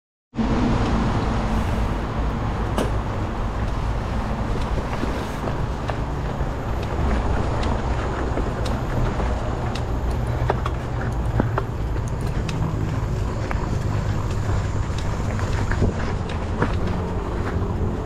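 Mountain bike being ridden on a trail: steady rumble of wind and rolling tyres, with frequent sharp clicks and knocks of the bike rattling over bumps.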